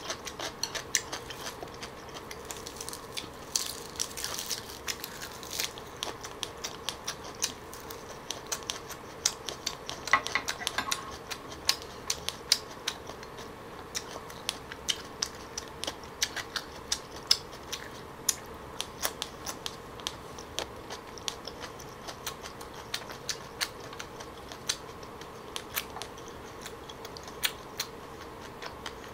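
Close-miked chewing: an irregular run of sharp wet mouth clicks, a few a second, over a faint steady hum.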